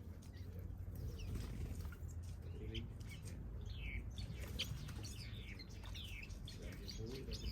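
Several small aviary birds, finches and softbills, chirping: short calls that slide down in pitch, coming thicker in the second half, over a low steady rumble.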